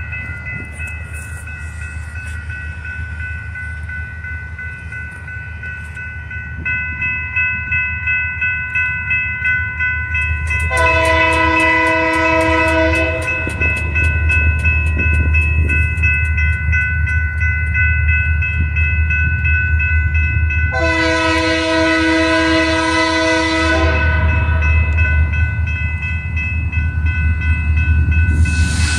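Approaching diesel freight train: the locomotives' low engine rumble grows louder as it nears, and the air horn sounds two long blasts, one about 11 seconds in and one about 21 seconds in.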